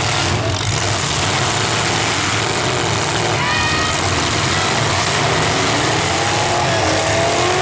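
Engines of several full-size demolition derby cars running and revving at once, a loud, dense, steady din with pitch rising now and then, most clearly in the last couple of seconds.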